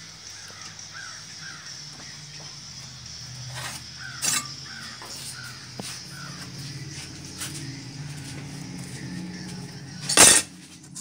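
A bird calling in the background, a string of short falling calls, over a steady low hum. A loud clattering knock about ten seconds in.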